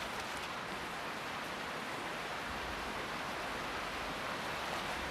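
Steady, even hiss of rain falling in the forest.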